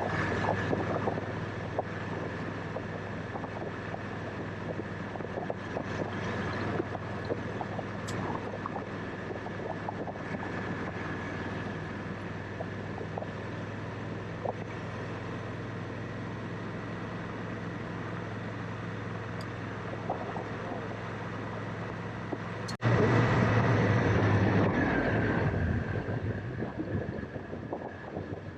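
A 2019 Honda Africa Twin DCT's parallel-twin engine running at a steady pace with wind noise over the microphone. About 23 seconds in, the sound turns suddenly louder.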